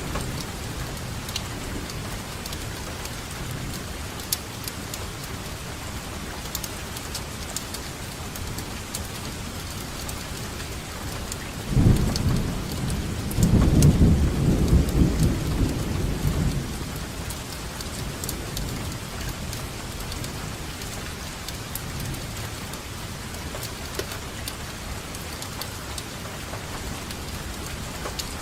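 Steady rain falling, with scattered close drop taps. About twelve seconds in a roll of thunder comes in low and lasts about five seconds, the loudest sound.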